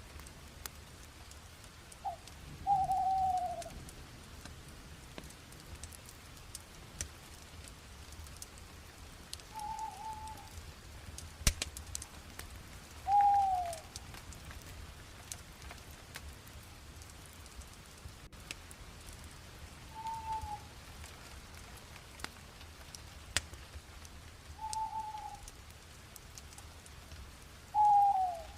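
A bird calling in short notes that slide downward, about six times, a few seconds apart. Bonfire crackling under it with scattered sharp pops.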